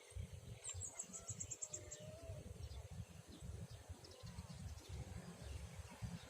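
Riverbank ambience with an irregular low rumble. About a second in, a bird gives a rapid high-pitched trill of about ten notes, and faint short bird calls come and go.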